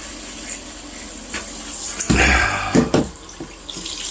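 Tap water running over a vacuum filter being rinsed out, with a louder rush and splash of water about two seconds in that lasts around a second.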